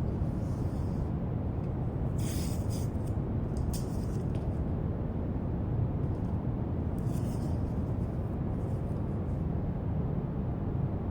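Steady brown noise, with several short scratchy strokes of a drawing tool on paper over it; the loudest strokes come about two and about seven seconds in.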